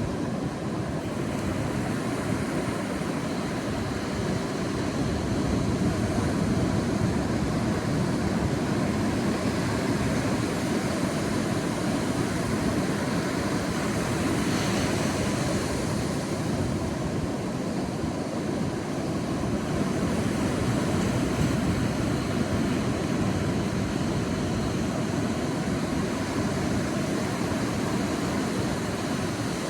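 Sea waves rolling onto a beach in a steady, continuous surf wash, swelling gently in loudness, with one brighter, hissier wave wash about halfway through.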